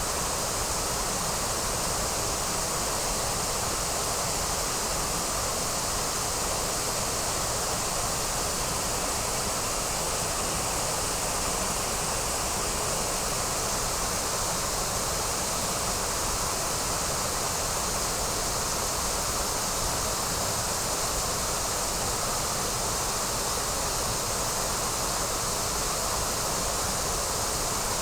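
A waterfall's steady, unbroken rush of water.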